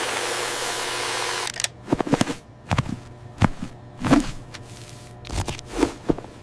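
Cartoon sound effects: an even hiss lasting about a second and a half, then a run of sharp, irregular knocks and taps over a faint steady hum.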